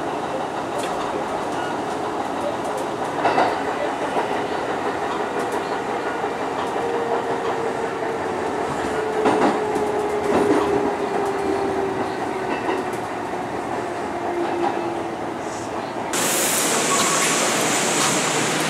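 Kintetsu Osaka Line local train heard from inside: wheels rumbling on the rails, with a few sharp clacks over the points, and a faint whine that falls in pitch as it slows. About 16 seconds in the sound cuts abruptly to a steady hiss on the open platform.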